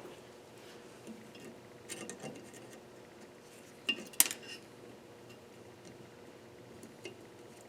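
Light metallic clinks and taps of small steel engine parts being handled during cylinder head disassembly. There are a few soft clinks about two seconds in and two sharper ones about four seconds in, the second of them the loudest.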